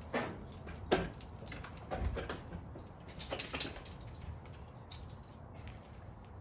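Scattered metallic clinks and knocks of hand tools and battery hardware during a battery swap on a diesel pickup, with a brief jangling cluster about three and a half seconds in.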